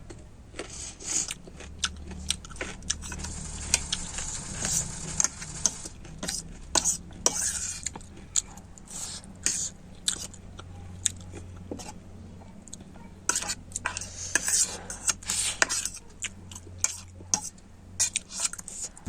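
Cutlery clinking and scraping against a bowl of instant noodles, many irregular sharp clicks, with some chewing as the noodles are eaten.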